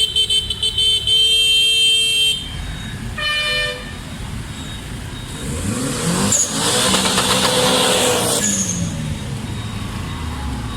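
Car horn sounding in short pulses for about two seconds, then one brief horn blast about three seconds in. From about halfway a car drives past, its engine note rising then falling as it goes by.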